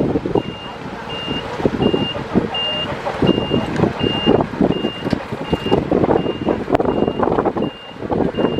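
Reversing alarm of a heavy earthmoving machine beeping steadily, about three beeps every two seconds, over the machine's engine and clattering working noise.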